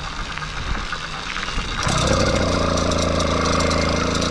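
80cc two-stroke bicycle engine catching on a bump start about halfway through, then running steadily. Before it fires there is only wind and rolling noise.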